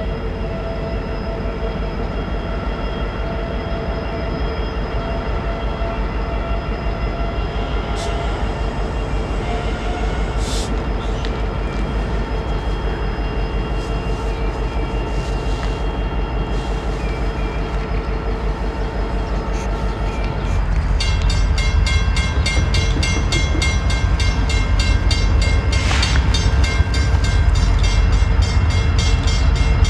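Diesel freight train running on the line, with a steady low engine rumble and a hum of steady tones. About two-thirds of the way through it grows louder and a fast, regular clatter sets in.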